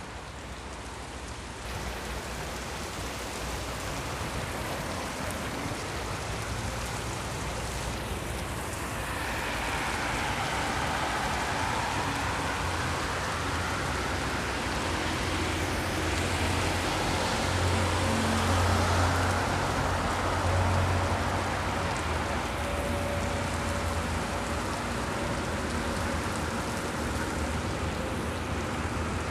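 Steady rain falling, growing louder for several seconds in the middle, with a low hum underneath.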